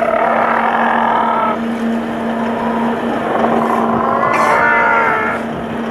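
Boat engine running with a steady hum. Two spells of indistinct voices sound over it, at the start and again past the middle.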